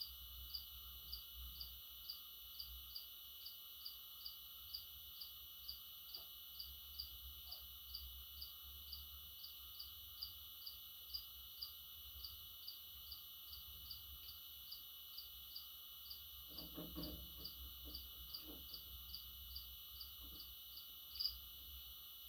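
Faint cricket chirping, evenly and steadily at about two chirps a second, over a steady high hiss. A brief low rustle comes about three-quarters of the way through.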